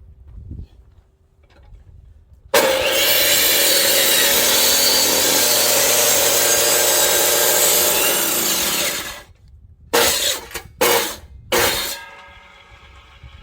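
Power saw cutting through a firewood log for about six seconds, then cutting off, followed by three short bursts of the saw.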